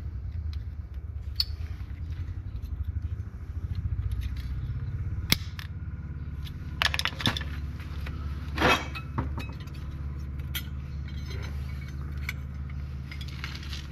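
Metal tools and parts clinking and scraping a few times, the loudest about nine seconds in, over a steady, low, pulsing rumble of running machinery.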